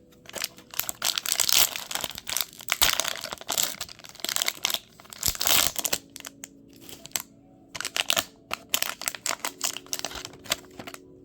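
Foil wrapper of a 2019 Series 2 baseball card pack crinkling and tearing as it is opened. The dense crinkling runs for about six seconds, then thins to scattered lighter crackles and clicks.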